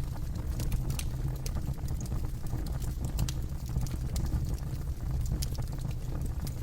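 Campfire burning, with irregular sharp crackles and pops over a steady low rumble of flame.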